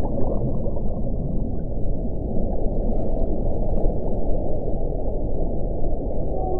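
Wind blowing steadily: a deep, even rushing with most of its sound low down and little hiss above it.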